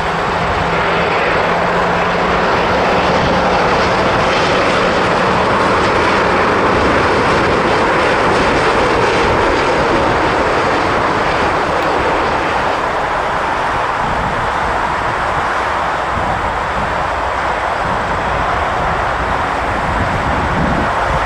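Jet airliner's engines running loud and steady, swelling a little in the first few seconds and then slowly easing off.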